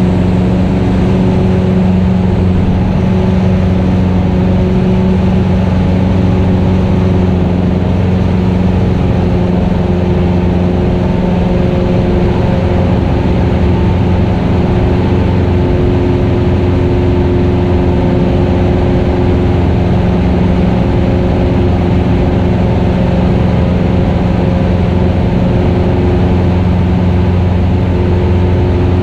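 Cessna 172RG's 180 hp four-cylinder Lycoming engine and propeller running steadily at constant power, heard from inside the cockpit.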